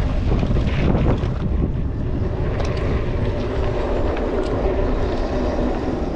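Steady low rumble of wind buffeting an action camera's microphone during a mountain bike ride.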